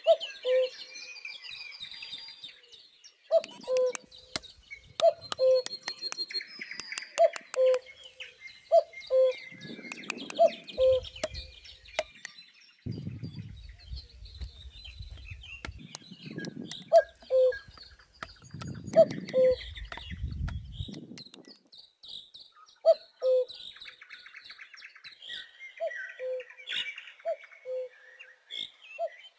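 Birds calling. One bird repeats a two-note call, a higher note then a lower one, over and over, while other birds chirp at a higher pitch. A few sharp clicks come early and low rumbles come in the middle.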